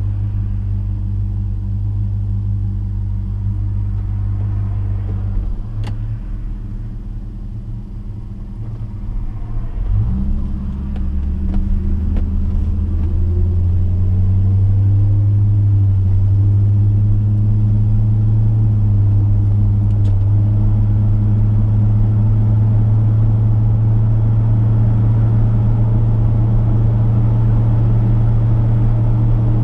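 Chevrolet V8 engine idling with a steady low rumble. About ten seconds in, it pulls away, its note rising as the car accelerates, then it settles into a steady cruise.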